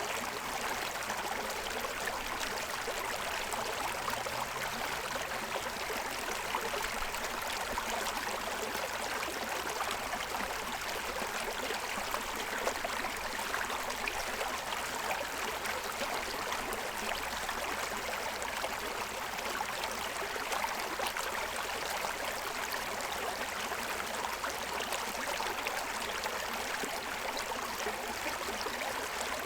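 Shallow stream running steadily over the stones of its bed, a constant even rush of water.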